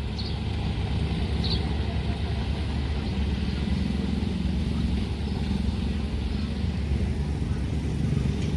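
Steady low rumble of a train running past at a railway level crossing, with two faint high squeaks in the first couple of seconds.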